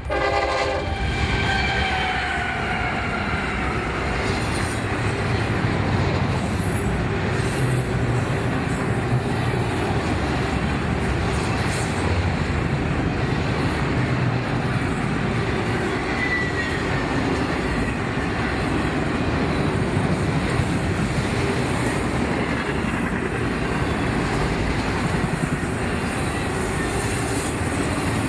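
A train passing close by: its horn sounds as the locomotive goes by and drops in pitch over the first couple of seconds, then the cars roll past in a loud, steady rumble with wheel clatter. A brief faint wheel squeal comes in about halfway through.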